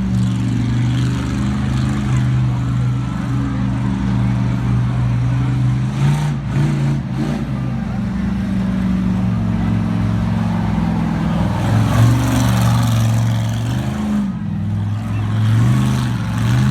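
Monster truck engine running with a deep steady note, its pitch rising and falling as it revs about six seconds in and again in the last few seconds.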